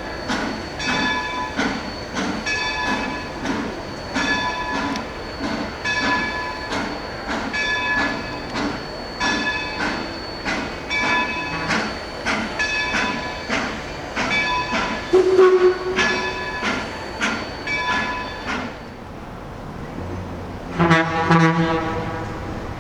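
Steam locomotive bell ringing steadily, about one stroke a second, while the train reverses; the ringing stops after about eighteen seconds. Near the end a train horn sounds once, briefly.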